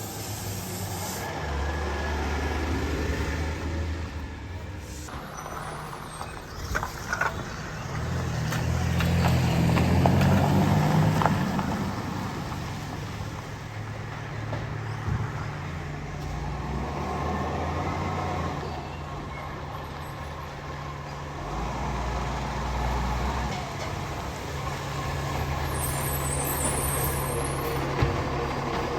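Garbage truck engine running, swelling louder around ten seconds in and easing off again, with a few short knocks a few seconds before that.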